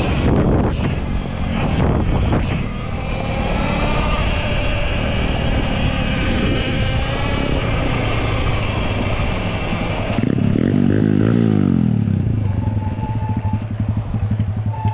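150cc four-stroke dirtbike engine running under throttle, its revs rising and falling. About ten seconds in the revs drop away and it settles to a steady, pulsing idle.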